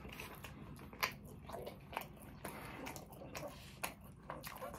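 A person chewing food close to the microphone: soft, irregular wet mouth clicks, a few louder ones about one and two seconds in.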